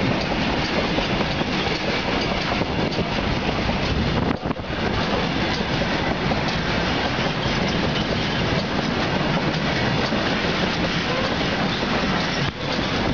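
Loaded flat wagons of a RO-RO freight train rolling past at close range: a loud, steady rush and rumble of wheels on the rails. The noise dips briefly about four seconds in and again near the end.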